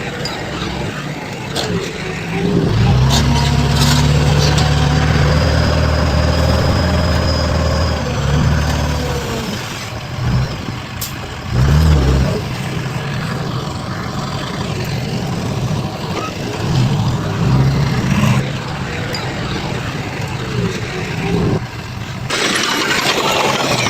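Heavy diesel engines of construction machinery running, with a stretch of steady, louder engine tone a few seconds in and a brief surge about halfway through. The sound changes abruptly near the end.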